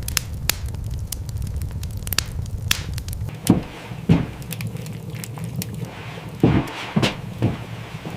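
Wood fire crackling with sharp pops, over a low rumble that drops away about three seconds in. Several louder short soft sounds follow, two around the middle and three near the end.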